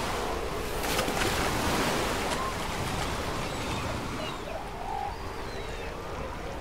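Ocean surf washing against rocky shore, the hiss of the wave dimming through the second half.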